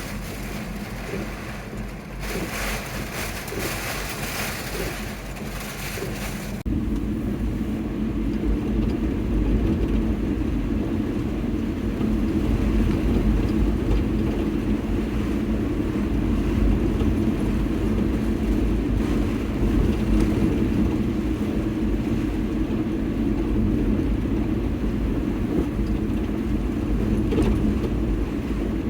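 A vehicle running with a steady low rumble. A hiss is heard first and stops suddenly about six and a half seconds in, when the rumble becomes much stronger.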